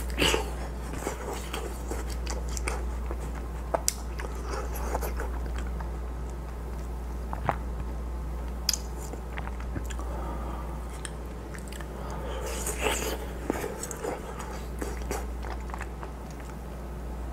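Close-miked biting and chewing of juicy watermelon and fruit chunks pulled off a skewer: wet crunches and squishy chewing with scattered sharp clicks, busiest a little after halfway. A steady low hum runs underneath.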